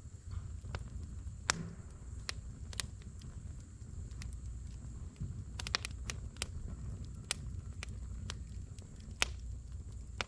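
Firewood burning in a fire pit, crackling with irregular sharp pops over a low steady rumble.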